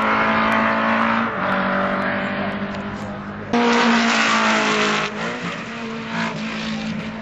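Racing car engines running hard at steady high revs as the cars lap the circuit. The sound changes abruptly about halfway through, at an edit in the footage.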